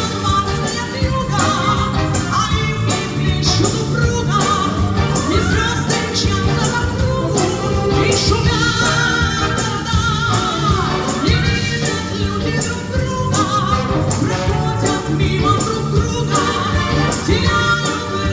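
Wind orchestra playing, with a woman singing over it with vibrato.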